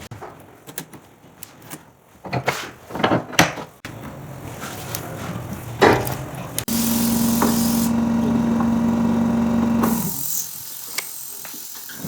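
Scattered knocks and clicks of wood and tools being handled, then a power tool's motor running at a steady pitch for about three seconds before cutting off suddenly.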